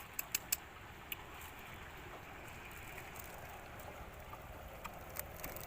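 Faint steady outdoor background noise, with a few light clicks in the first second and another about five seconds in.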